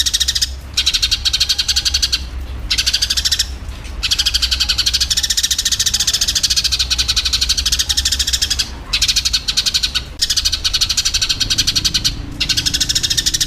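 Eurasian tree sparrows chattering in fast, harsh runs of rapidly repeated notes: the excited calls of sparrows fighting. The runs break off briefly every few seconds, over a steady low hum.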